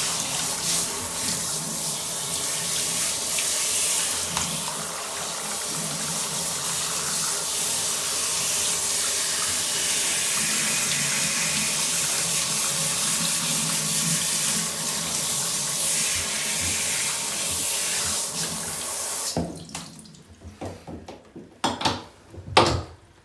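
Water running steadily from a tap, which is shut off suddenly about three-quarters of the way through. A few sharp clicks and knocks follow.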